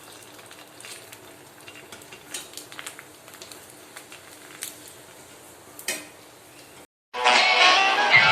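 Faint clinking and light clatter of dishes and cutlery, with scattered small clicks; about seven seconds in it cuts out and music starts.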